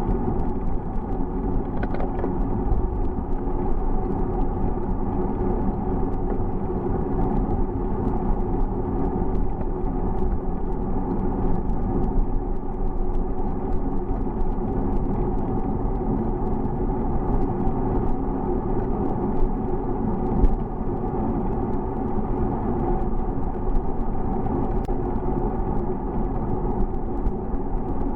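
Steady rumble of wind and road noise on the microphone while riding a bicycle, with a few faint ticks.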